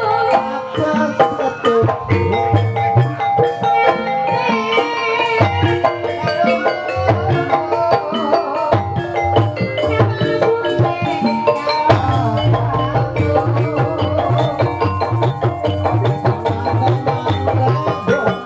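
Ebeg gamelan music: a hand-drum (kendang) pattern beating under layered tuned metal or bamboo percussion, played continuously.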